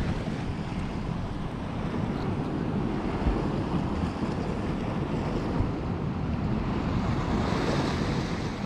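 Wind buffeting the microphone, a steady low rumble over the wash of sea waves.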